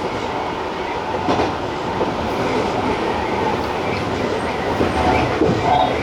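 Running noise of a Tobu TJ Liner electric train heard from its leading car: a steady rumble of wheels on rails, with the clatter of wheels passing over rail joints.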